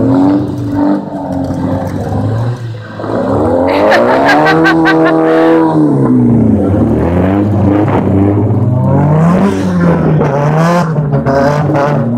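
Car engine revving hard as cars drift on snow: the pitch climbs and falls several times, with the biggest run-up about four seconds in, dropping back about two seconds later.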